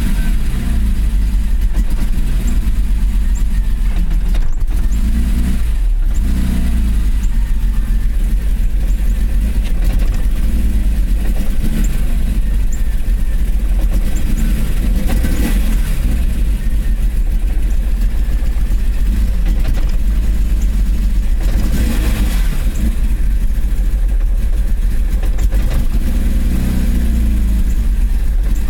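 BMW S38B36 inline-six engine running with a stumble and misfire, its engine speed rising and falling a few times. The misfire is a symptom of a bad distributor cap and rotor.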